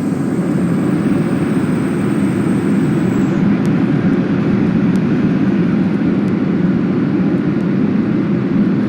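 Steady roar of airflow and CFM56 engines heard inside the cabin of a Boeing 737-800 on approach, with flaps extended and the landing gear probably down. A faint high whine stops about three and a half seconds in.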